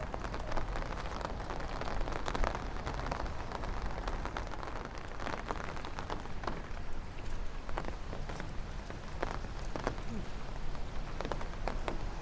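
Rain falling steadily, with many small sharp drop hits close by.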